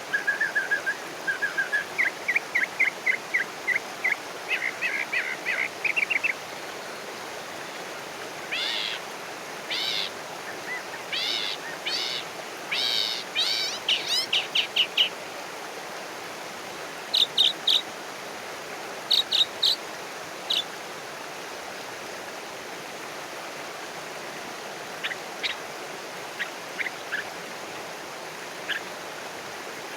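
Wild birds singing over a steady hiss of running water: quick runs of chirps and rising, arching whistled notes through the first half, then a few sharp, spaced chips and single high notes in the second half.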